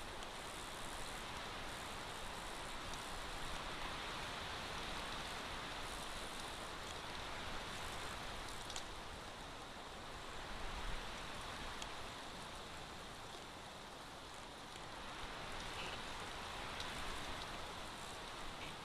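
Steady rain falling: an even, fairly quiet hiss with a few faint ticks of drops.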